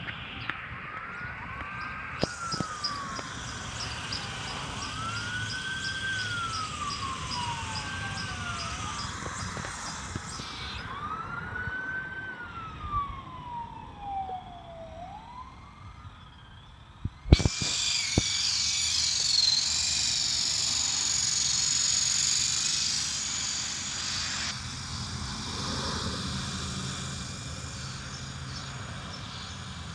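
A wailing siren rises quickly and falls slowly, over and over, through the first half. About 17 s in, after a sharp click, the small electric motor and rotors of a remote-control toy helicopter spin up with a loud high whine for about seven seconds, then ease off.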